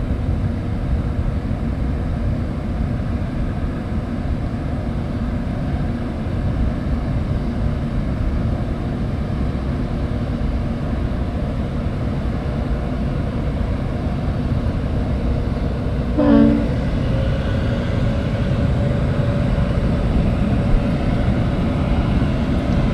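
Towboat's diesel engines rumbling steadily as it pushes barges upriver under power, a deep continuous drone. About two-thirds of the way through comes a brief pitched sound, followed by a faint steady whine.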